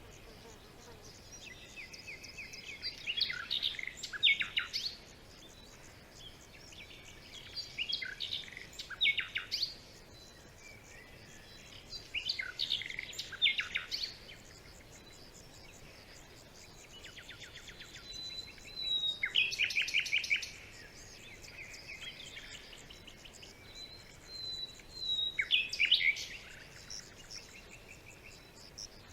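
Songbirds singing in phrases every few seconds, mixing chirps and whistles with quick trills.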